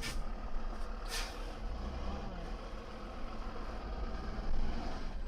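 Steady road and engine noise of a vehicle driving, heard from a dash camera, with two short hissing bursts: one at the start and one about a second in.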